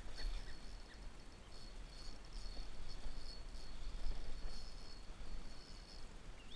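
High-pitched insect trilling that comes and goes in uneven pulses, over a steady low rumble.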